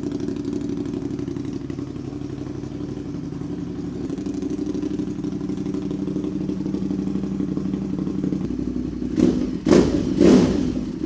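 Ducati Monster 1200's V-twin engine, fitted with an SC Project slip-on exhaust, idling steadily just after a cold start, then three quick blips of the throttle near the end.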